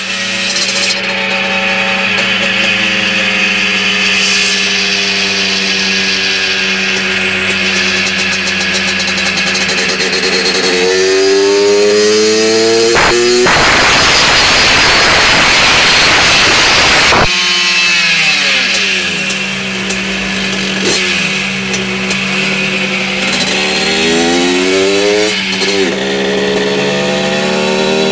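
Tuned two-stroke moped engine, a Honda MT8 with a 113cc Malossi cylinder kit, carbon reed valve and Malossi exhaust, running hard on a roller dyno. The revs climb and fall several times, with a very loud full-throttle stretch in the middle before the revs drop and build again.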